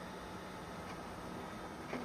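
Quiet room tone with a low steady hum and faint ticks about once a second.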